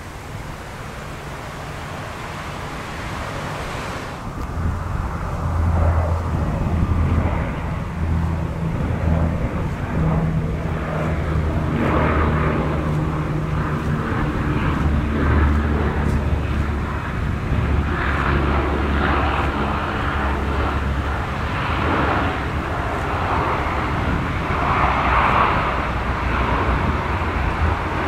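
Antonov An-12A's four Ivchenko AI-20 turboprop engines droning on approach. The drone swells about four seconds in, then stays loud and steady, with its tones shifting as the aircraft passes.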